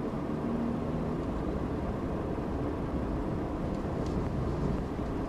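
Steady in-cabin road and engine rumble of a 2012 GMC Terrain crossover SUV driving slowly on a snow-covered road.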